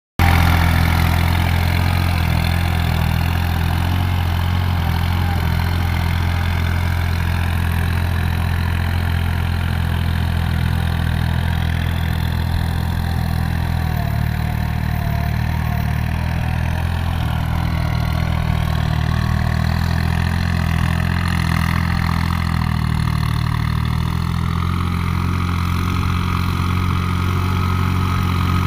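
New Holland TT55 tractor's diesel engine running steadily at an even speed.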